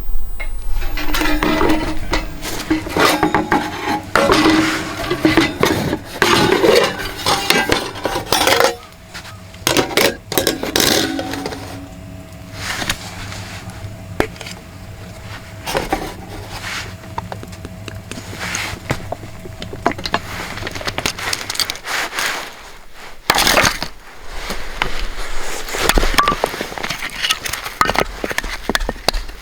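Cookware and utensils being handled: irregular clinks, knocks and clatters of metal and dishes, busiest in the first ten seconds.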